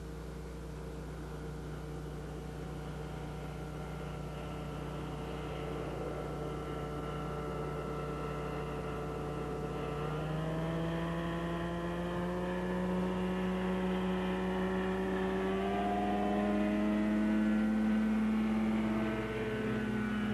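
Rotax 447 two-cylinder two-stroke engine of an ultralight flying wing droning in flight, growing louder as the aircraft comes overhead. Its pitch steps up about halfway and keeps climbing, then dips slightly near the end as it passes.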